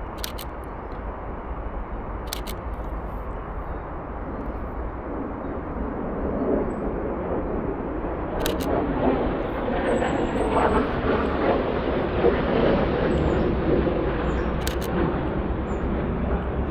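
Distant engine rumble that swells louder over several seconds, peaking past the middle, with four short clicks of a camera shutter.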